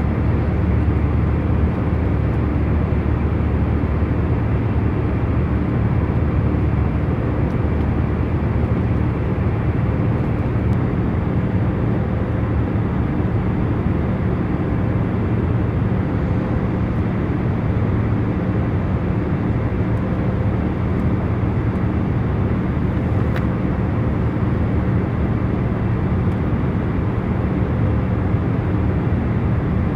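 Steady hum of a jet airliner in cruise as heard inside the passenger cabin: a deep, even rush of engine and air noise with a few faint steady tones underneath.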